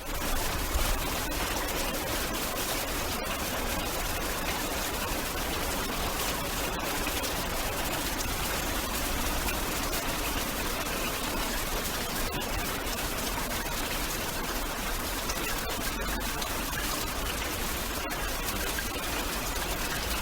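Steady hiss of heavy rain falling, even and unbroken throughout.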